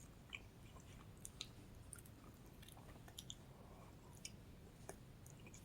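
Faint chewing with small, scattered mouth clicks over near silence: a person eating pizza.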